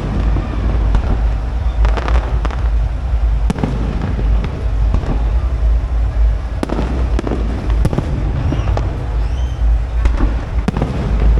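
Aerial fireworks going off again and again: sharp bangs and bursts of crackling over a constant low rumble.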